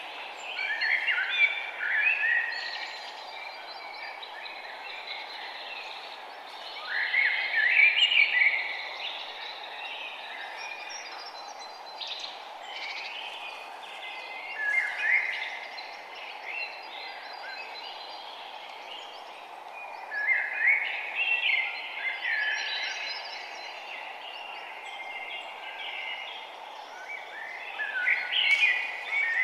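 Forest birds singing in repeated bursts of chirping song, several voices overlapping, over a steady background hiss.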